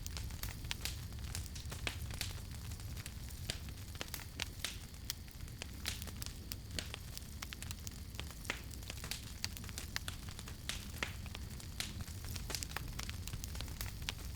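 Campfire burning, with irregular sharp wood crackles and pops over a steady low rumble of the flames.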